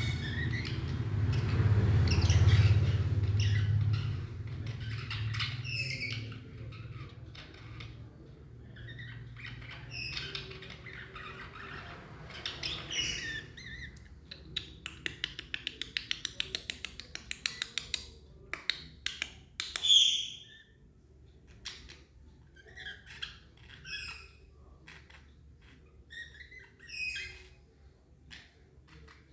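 Budgerigars chirping and squawking in short, scattered calls, with a run of quick clicks or taps about halfway through and a low rumble in the first few seconds.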